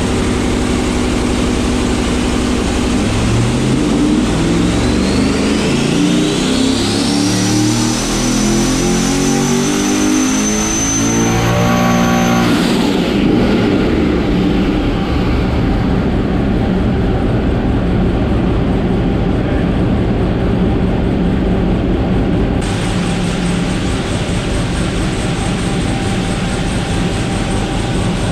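Twin-turbo LS V8 in a Dodge Valiant drag car making a full-throttle dyno pull: the engine note climbs steadily for about ten seconds while a turbo whine rises and then holds high. About twelve seconds in, the pull ends abruptly and the whine stops, leaving a steady running noise.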